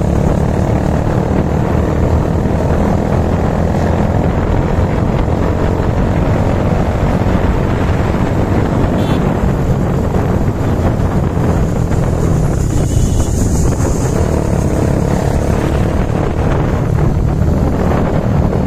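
Motorcycle engine running steadily at road speed, mixed with heavy wind rush on the microphone.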